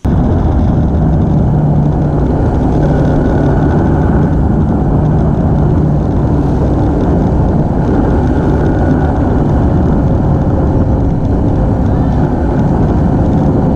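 Motorbike riding: the engine running at a steady speed under heavy wind noise on the microphone.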